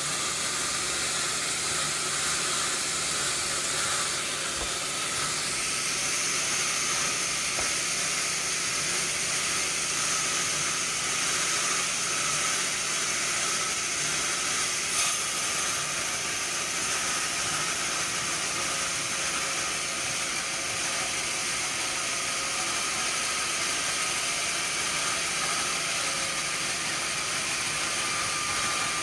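Sawmill machinery running steadily, a continuous hiss with a faint steady whine, and one short knock about halfway.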